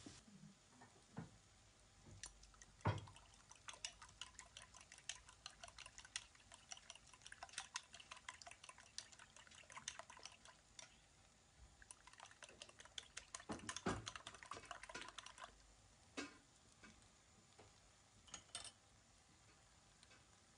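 Faint kitchen sounds: many quick, irregular light clicks and ticks, with one louder knock about three seconds in and a short run of heavier knocks a little past the middle.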